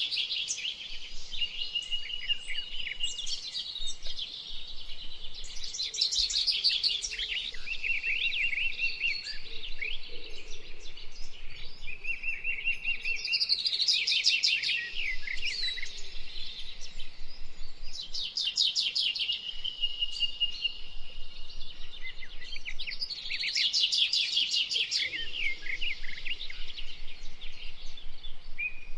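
Birdsong from several birds at once: loud, rapid trills that come back every few seconds over a steady background of high twittering and held whistled notes.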